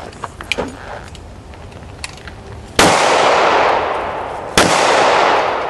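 Two gunshots about two seconds apart, the first about three seconds in. Each has a long echoing tail that fades away; before them there are only a few faint clicks.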